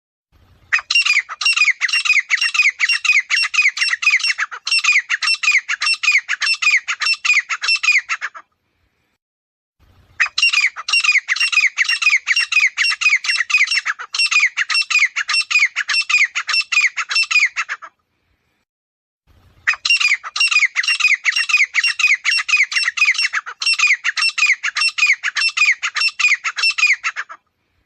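Grey francolin calling: three long bouts of loud, rapidly repeated harsh notes, about four a second, each bout lasting some seven seconds with a short silence between them.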